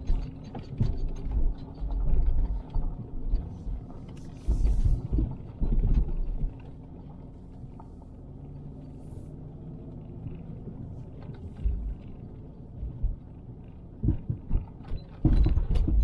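Car driving slowly, heard from inside: a steady low engine and road hum with bursts of low thumps and rumble in the first six seconds and again near the end.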